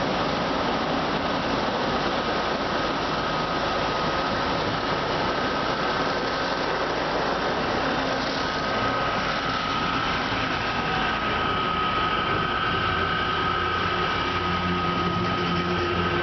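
A 1998 Ceccato car wash machine running: a steady, loud mechanical wash noise with a constant whine, and a deeper hum joining near the end.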